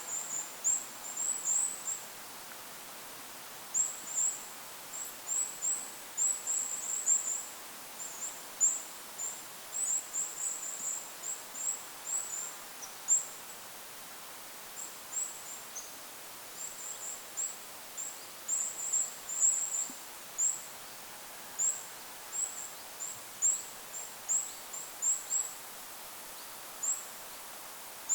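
Goldcrest calling: runs of very high, thin, short notes in quick succession, broken by pauses of a second or two. A steady wind hiss runs underneath.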